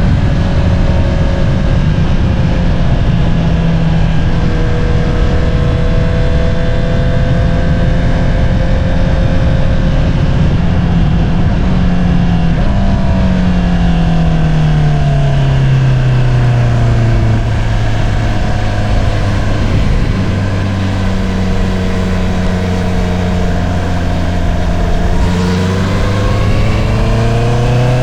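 2022 Honda CBR650R's inline-four running through an Akrapovič single-outlet exhaust while riding, with wind noise. The engine note holds steady at first, drops as the throttle is rolled off partway through, stays low for several seconds, then climbs again near the end as the bike accelerates.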